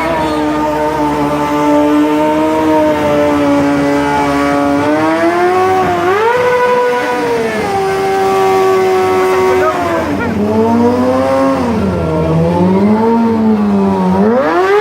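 Stunt motorcycle engine held at high revs: a steady high pitch for the first few seconds, climbing about five seconds in and holding, then dipping and rising several times as the throttle is worked, with a sharp climb near the end.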